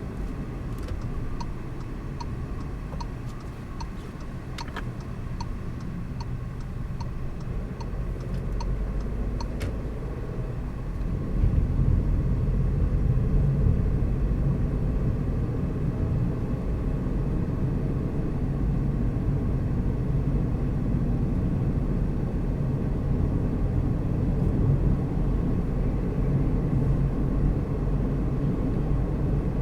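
Car driving, a steady low rumble of engine and tyres that grows louder about eleven seconds in as it picks up speed. Light, evenly spaced ticking, about two a second, runs through the first ten seconds.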